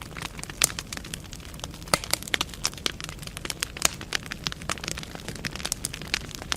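Burning firewood in a fireplace crackling: many sharp irregular pops and snaps over a steady low rumble of the flames.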